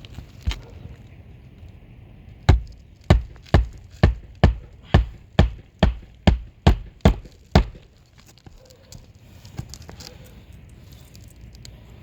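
Hammer striking about a dozen times, roughly two blows a second, then stopping: nailing during a roof shingle repair.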